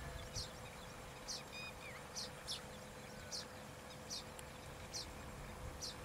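Small weaver birds chirping: short, high chirps, one every half second to second, with a faint steady hum underneath.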